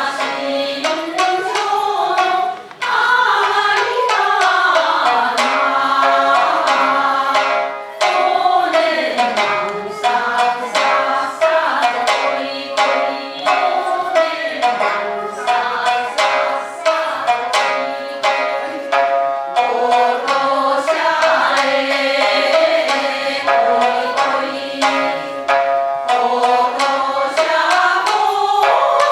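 Japanese folk song (min'yō) sung by a group to shamisen accompaniment, with continuous sharp plucked notes under a gliding, ornamented vocal melody.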